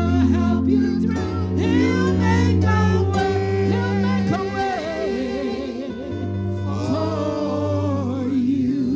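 Gospel singing: voices sing a melody with bending, ornamented notes over sustained low accompanying chords.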